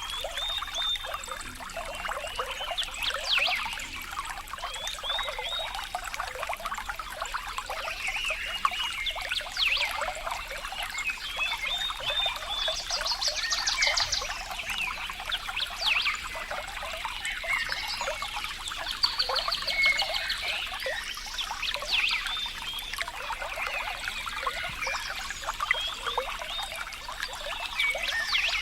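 Water trickling and babbling over stones, with small animal calls over it: short chirping notes and, twice, a rapid trill.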